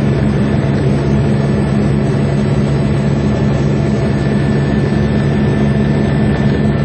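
Steady, loud drone of a helicopter in flight, its engine and rotor hum holding an even pitch with a wide rushing noise over it.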